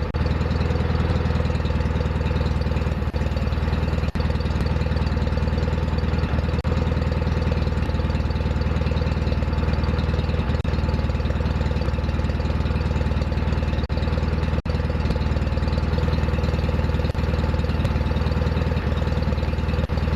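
John Deere 316 lawn tractor's twin-cylinder engine running steadily at a constant speed after its restoration.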